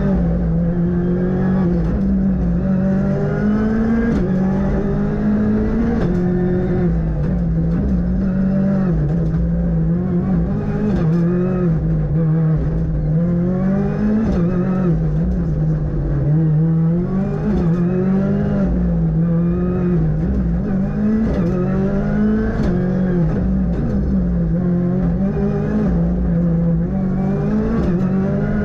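Ford Fiesta R5 rally car's turbocharged 1.6-litre four-cylinder engine, heard from inside the car at racing pace. The revs climb and fall again every second or two as the driver works through the gears and brakes for corners.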